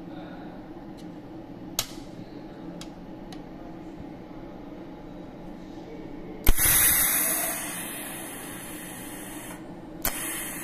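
ADS03 cold welding machine firing a pulse arc between the tungsten electrode and a stainless steel workpiece: a sudden loud crack that turns into a hiss fading over a second or two, over a steady machine hum. A few light clicks come before it and one after.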